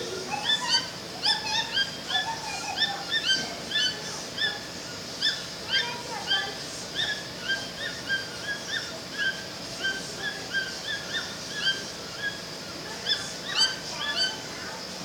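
A pair of toucans calling, a continuous run of short pitched notes at about two to three a second, the two birds' calls overlapping.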